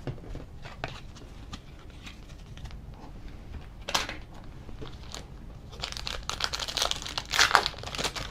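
A trading-card pack's wrapper crinkling as it is handled and torn open, with scattered light card-handling ticks. A short burst comes about halfway through, and a denser, louder run of crinkling near the end.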